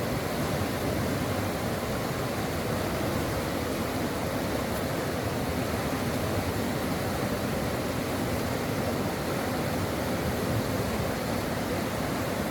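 A stream of water flowing in a steady, even rush with no breaks.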